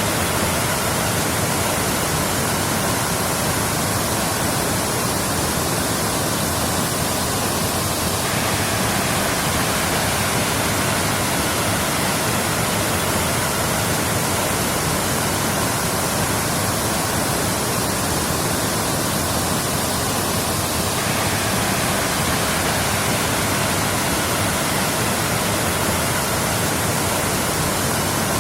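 Waterfall: water falling and rushing with a steady, unbroken roar.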